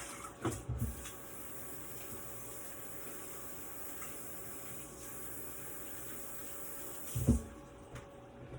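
Kitchen tap running steadily into a sink, cut off about seven seconds in with a low thump.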